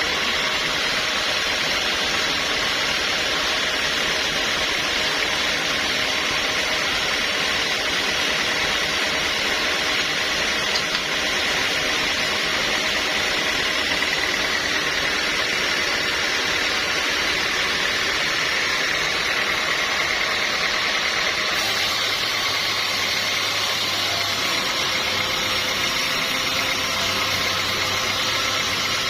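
Sawmill machinery running steadily, a loud mechanical drone with a faint high whine. About two-thirds of the way through the sound shifts and a low hum comes in.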